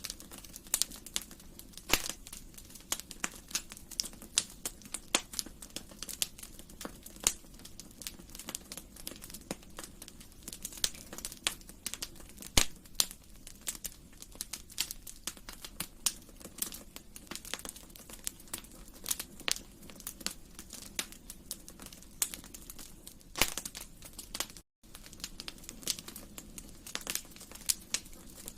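Wood fire burning in a fireplace: irregular crackles and sharp pops over a low steady hiss. The sound cuts out completely for a split second near the end.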